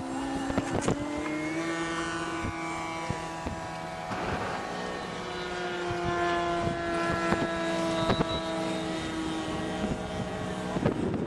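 Radio-controlled model airplane engine running in flight with a steady buzz, its pitch rising about a second and a half in, then holding and drifting lower near the end, with a few sharp clicks.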